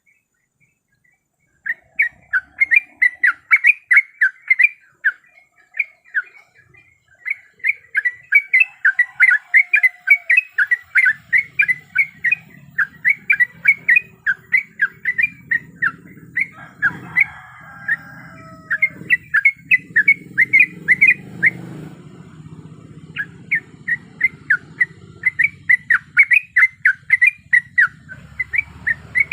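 Yellow-vented bulbul (trucukan) song used as a lure: runs of rapid, bubbling chattering notes repeated again and again with short breaks. A low background rumble joins about a third of the way in.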